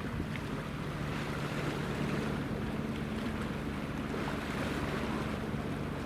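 Steady low drone of a ship's engine under wind buffeting the microphone and the wash of waves.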